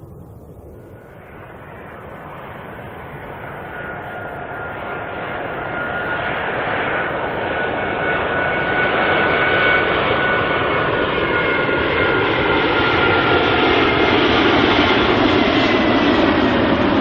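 Airbus A380's four Rolls-Royce Trent 900 turbofans growing steadily louder over about ten seconds as the jet draws near. A steady high whine sits over the rumble, and a tone falls in pitch in the last few seconds as it passes.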